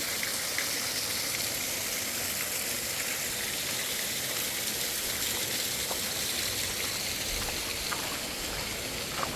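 Fast-flowing mountain water rushing steadily, with a few faint clicks.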